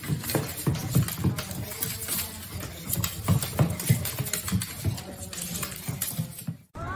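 A dog moving about, with irregular soft knocks and patters throughout.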